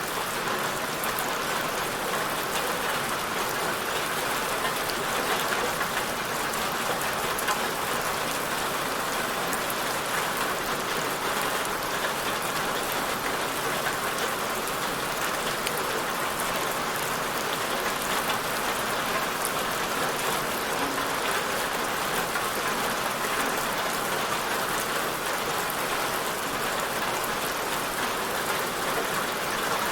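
Steady rain falling, an even hiss with fine scattered drop patter and no change in intensity.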